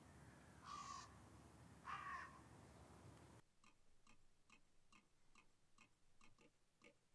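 Two faint, harsh bird calls about a second apart, then after a cut a faint, steady ticking about three times a second.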